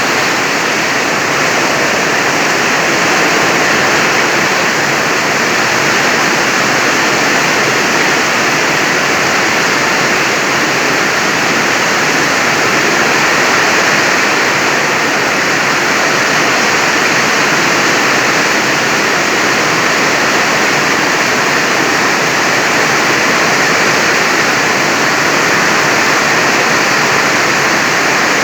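Heavy rain pouring down in a loud, steady rush that does not let up.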